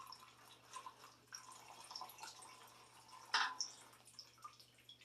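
Old kerosene dripping from a kerosene heater's fuel tank into a catch container: scattered small drops, with one louder drop about three and a half seconds in.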